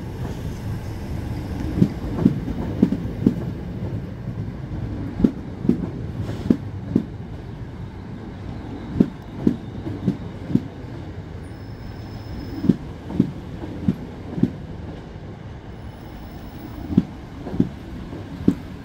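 Southeastern electric multiple unit rolling slowly past, with a steady low rumble. Its wheels knock over a rail joint in sets of four, one set every three to four seconds as each coach's pair of bogies crosses.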